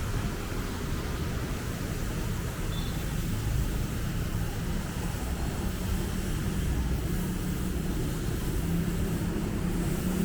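Steady rumble of city road traffic. Near the end a vehicle engine grows louder as it draws near.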